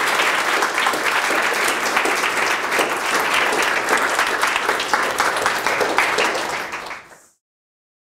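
Audience applauding, many hands clapping at once, fading out near the end.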